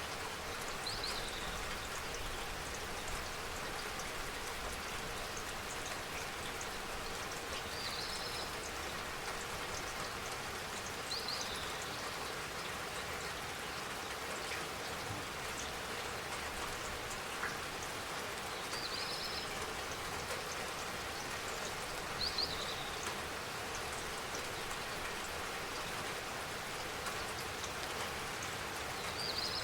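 Steady rain falling, an even patter of raindrops on surfaces, with a short high chirp recurring every few seconds.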